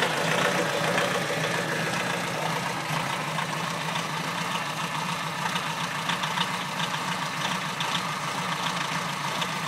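Volkswagen Syncro diesel engine idling steadily with a fine diesel clatter, still cold a couple of minutes after a −19 °C start without the auxiliary heater.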